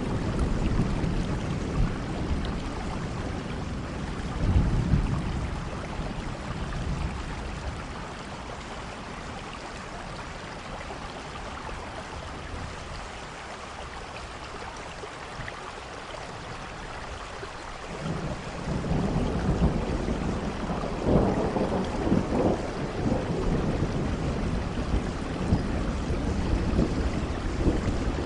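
Steady rain with deep, low rumbles of thunder. The rumbling eases through the middle and swells again about eighteen seconds in.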